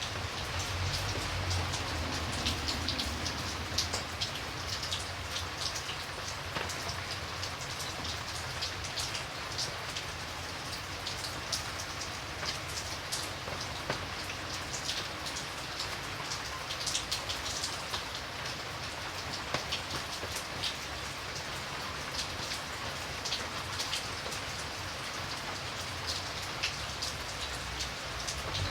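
Steady rain falling, with a constant hiss and many individual drops pattering and ticking on a surface.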